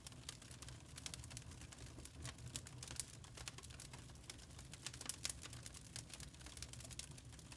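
Burning charcoal crackling: a fast, irregular run of sharp pops and ticks over a low, steady rumble.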